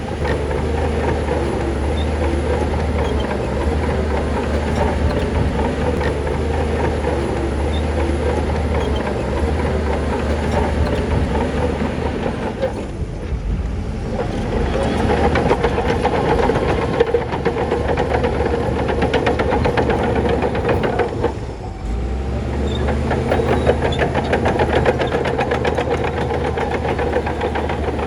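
Crawler bulldozer's diesel engine running hard, with the rapid, regular clanking of its steel tracks. The engine note drops briefly twice.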